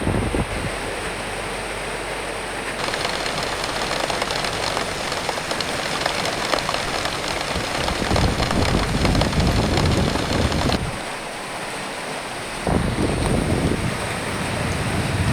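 Steady rain hiss with wind gusting over it, the low rumble of the gusts swelling and fading. The wind drops away for a couple of seconds past the middle, then comes back.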